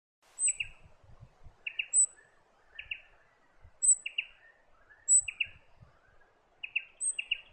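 A bird calling repeatedly, each call a high thin note followed by a quick pair of lower sharp notes, about once a second, with a faint murmur of other sound underneath.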